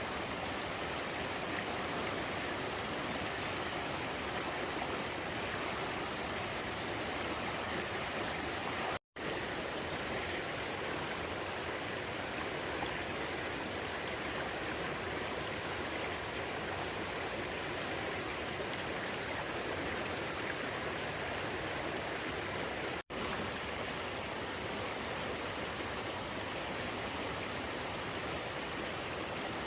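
Steady rush of running water, like a stream, constant throughout, with two brief dropouts to silence about nine seconds in and near twenty-three seconds.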